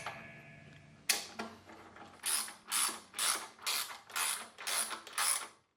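Ratchet wrench being worked in short, even strokes, clicking about twice a second, after one sharper stroke about a second in.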